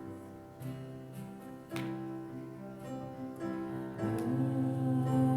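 Slow worship music led by strummed acoustic guitar, held chords changing every second or so and growing louder near the end.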